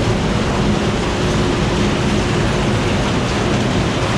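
Oxbo 8430 self-propelled ear corn picker running, its engine and picking machinery making a loud, steady drone with a low hum.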